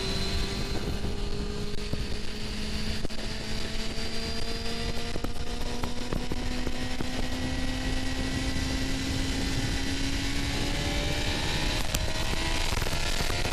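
Suzuki GSX-R750's inline-four engine pulling steadily, its note slowly rising as the bike gains speed, with a change in the note about eleven seconds in. A steady rush of wind noise runs underneath.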